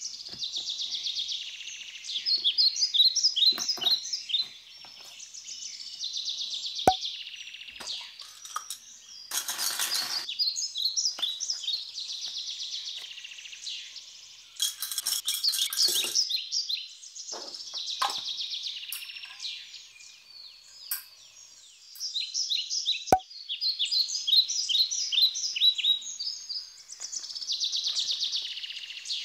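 A small songbird singing repeated phrases of quick, high chirps and trills, each phrase a couple of seconds long with short gaps between. A few sharp clicks and two brief rustles come from small objects being handled.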